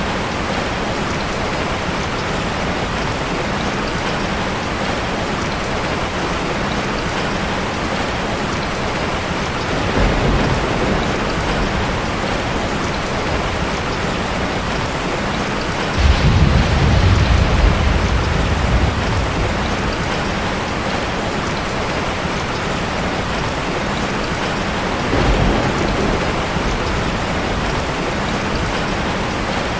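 Heavy rain falling in a steady, dense hiss, with low thunder rumbles. A faint rumble comes about ten seconds in, a louder one starts suddenly at about sixteen seconds and lasts about three seconds, and a short one follows near twenty-five seconds.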